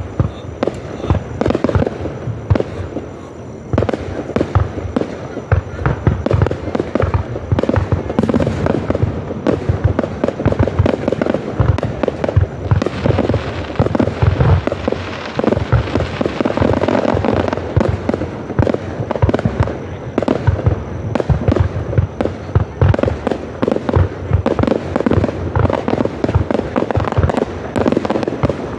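Aerial fireworks display bursting in rapid, dense succession: a continuous barrage of booms and crackles, easing briefly about three seconds in before resuming.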